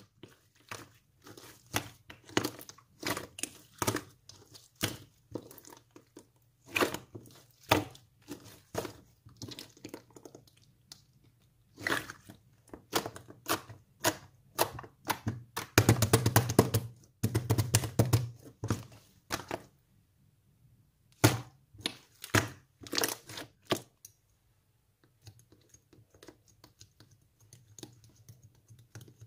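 Blue and pink slime being squeezed, pressed and folded by hand: wet clicks and crackling pops, with a dense run of rapid popping about two-thirds of the way through and only faint clicks near the end.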